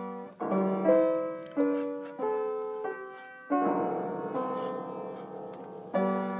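Piano keys pressed by a dog, jangling clusters of notes struck about six times at uneven intervals, each left ringing and fading.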